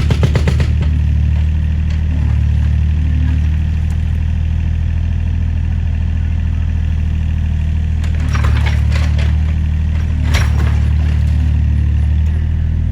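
Excavator's diesel engine running steadily, with a few sharp knocks about eight and ten seconds in.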